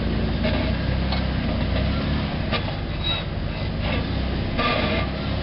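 Off-road Jeep rock crawling: the engine runs at low revs with a steady low rumble, with a few short knocks and scrapes on the rock along the way.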